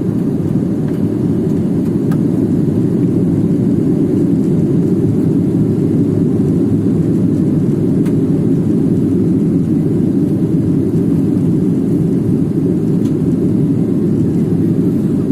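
Airliner on its approach in strong wind: a steady, loud, low rumble of engines and rushing air.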